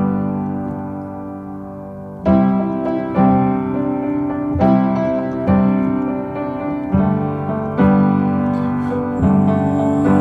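Instrumental break of a pop song: piano chords struck in a steady rhythm, a new chord roughly every second.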